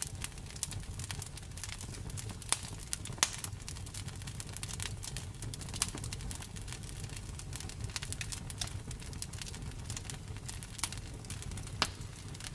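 Wood fire in a fireplace crackling, with irregular sharp pops over a steady low rumble of the flames; a few louder pops stand out, the loudest about a third of the way in and near the end.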